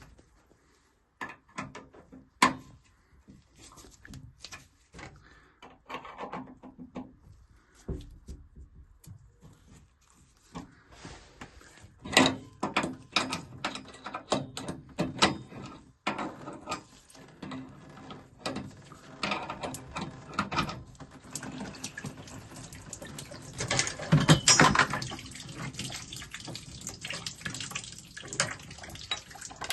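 Water running and dripping, mixed with frequent clicks and knocks of handling.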